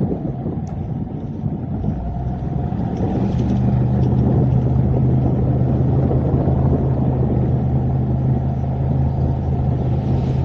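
Car engine and road noise while driving: a steady low hum that grows louder about three seconds in.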